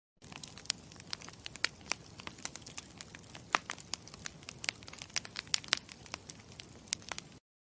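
Campfire crackling: a steady low hiss of burning wood with frequent sharp, irregular pops and snaps. It starts suddenly just after the beginning and cuts off abruptly near the end.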